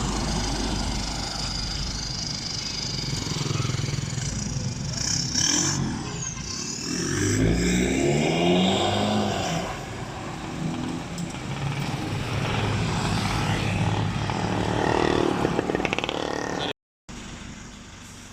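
Nissan Navara pickup's diesel engine running through an aftermarket HKS full exhaust as the truck drives off, accelerating with the engine pitch rising about halfway through. The sound drops out for a moment near the end, then continues quieter.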